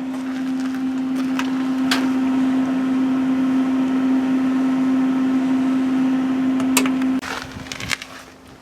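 Steady machine hum at one pitch, growing louder and then dropping sharply about seven seconds in, with a few sharp clicks.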